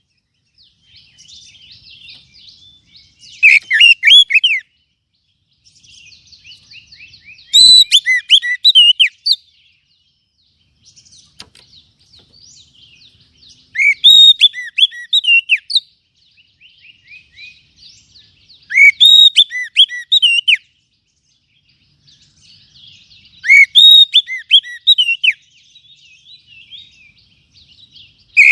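Oriental magpie-robin (kacer) singing: loud phrases of sweeping whistled notes, five in a row about five seconds apart, with quieter chattering notes between them.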